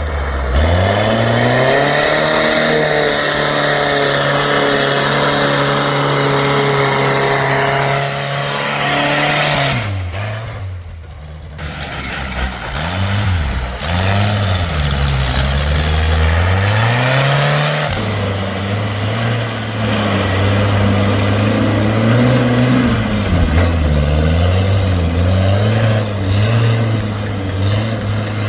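Heavy diesel engine revving hard and held at high revs, straining in deep mud. It climbs to a high rev at the start, drops off about ten seconds in, then revs up and down several times before holding high again.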